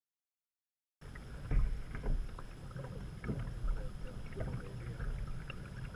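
Canoe on a creek: scattered paddle splashes and small water sounds over a steady low rumble, starting about a second in.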